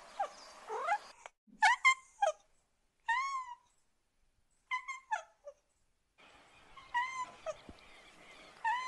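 Cat meowing: a string of short, high-pitched meows, some arching and falling in pitch, broken by abrupt silent gaps between spliced clips.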